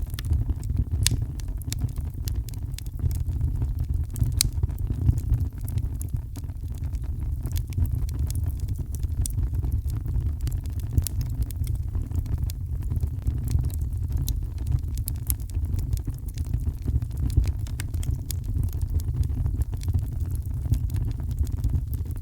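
Fireplace fire crackling, with frequent irregular sharp snaps and pops, over a deep steady rumble of heavy rain.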